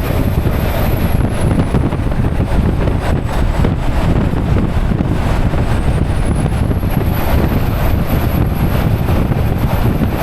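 Semi-truck driving: steady engine and road noise, heaviest in the low end, with a faint high whine that glides down in pitch and climbs back up partway through.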